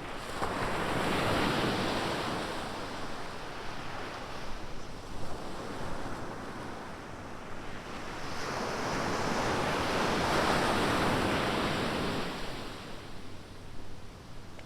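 Ocean surf: waves breaking and washing up the beach, swelling twice and falling back between, with wind buffeting the microphone.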